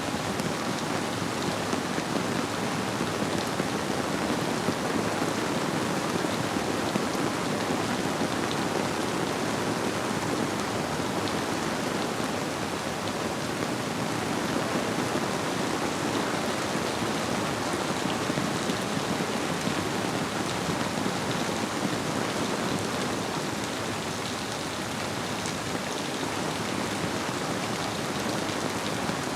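Steady rainfall with individual drops ticking, blended with the flow of a river.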